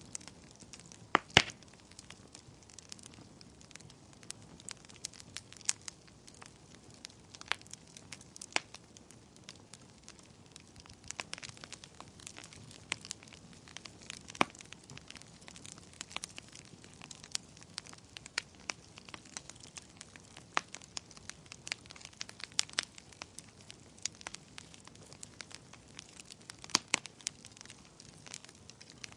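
Wood fire burning in a fireplace: a low steady hiss with irregular sharp crackles and pops, the loudest pop about a second in.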